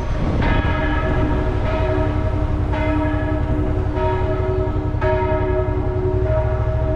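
Church bell ringing, about six strokes roughly a second apart, each ringing on, over the steady low rumble of the motorcycle's engine and wind noise.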